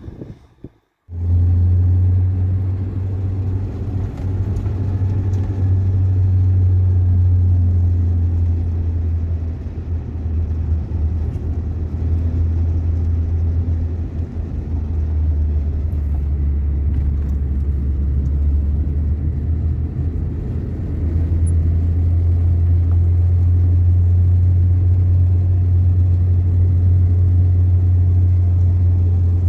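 Steady low rumble of a motor vehicle on the move, cutting in suddenly about a second in after a brief silence and swelling slightly now and then.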